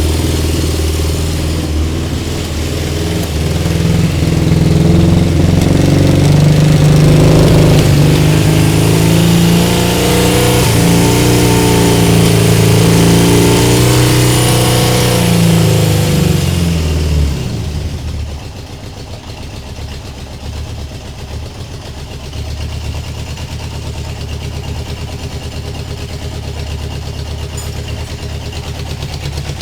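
Honda CB750K2's inline four-cylinder engine running at raised revs that waver up and down, then the revs fall about 17 seconds in and it settles into a steady, quieter idle.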